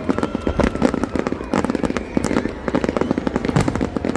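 New Year's Eve fireworks display: a dense, continuous run of cracking and popping bangs, many each second, over a low rumble.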